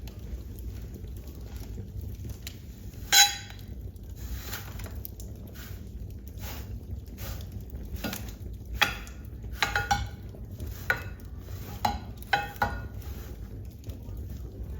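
Wood fire in a fireplace crackling, with scattered sharp pops over a steady low rumble. The loudest pop comes about three seconds in, and a run of them comes in the second half.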